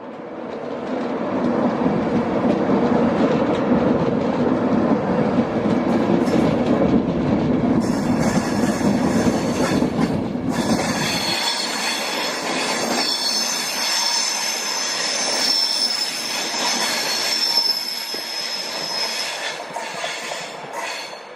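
A train moving through a station: a low rumble for about the first half, then high-pitched metallic squealing of wheels on rail from about halfway on.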